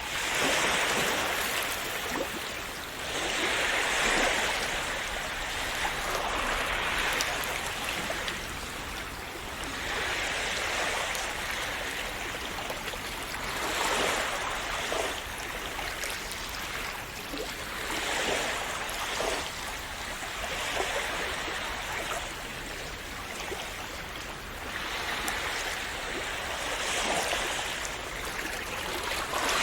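Calm sea waves splashing and washing onto the shore, one soft swell every three to four seconds.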